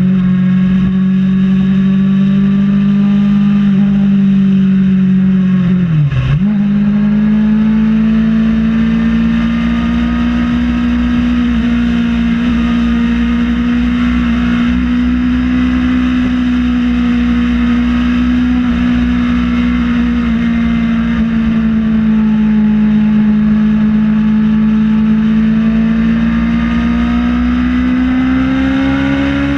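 Kawasaki ZX-6R inline-four engine running at steady high revs, its note rising slowly, with a sharp dip in pitch and quick recovery about six seconds in and again at the end.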